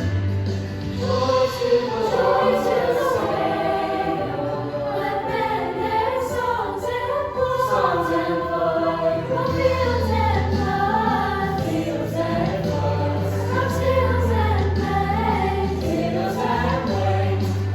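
School choir singing with instrumental accompaniment, held low bass notes sounding under the voices at intervals.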